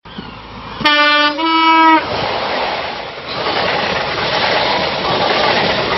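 Train horn sounding two notes about a second in, each about half a second long, the second slightly higher than the first. It is followed by the steady rumble of a train running.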